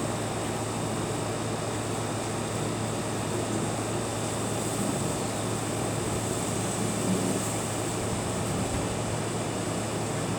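Steady wind noise, with a constant low hum under it.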